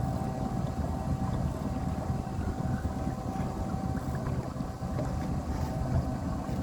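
A boat's engine running steadily, with a steady hum, and wind buffeting the microphone.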